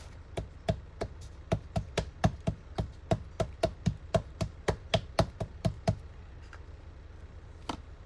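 A rubber stamp being tapped on an ink pad to ink it: a run of about two dozen quick knocks, about four a second, stopping after about six seconds, with one more knock near the end.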